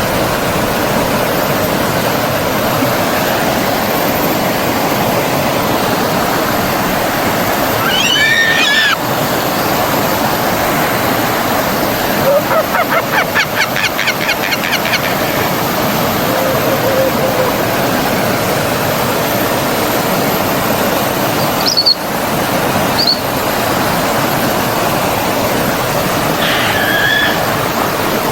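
Forest stream running steadily, with scattered animal calls over it: a gliding call about eight seconds in, a rapid pulsed trill near the middle, two brief chirps later, and another call near the end.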